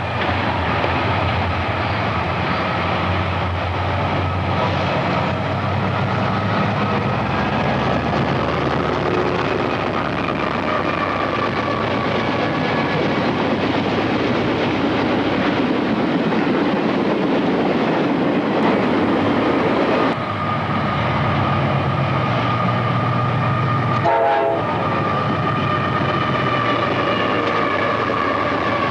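A train rolling past on the tracks: a steady, loud rumble of wheels on rail with faint high tones running through it, and a brief sharp sound a little over three-quarters of the way through.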